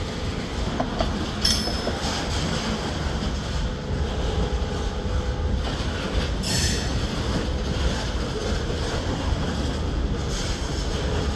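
Freight train rolling past, a steady rumble of wheels on rail with brief high wheel squeals, about a second and a half in and again around six and a half seconds in.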